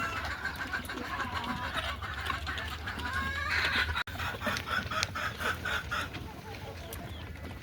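Desi chickens clucking: a rising call about three and a half seconds in, then a quick run of short repeated clucks.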